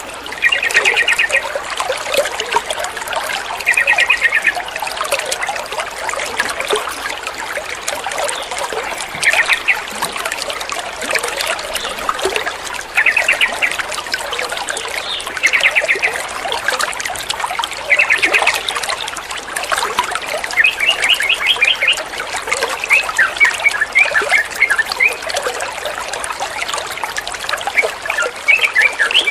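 Yellow-vented bulbul giving short, rapid chattering phrases every few seconds, becoming longer and more varied near the end, over a steady trickle of flowing water.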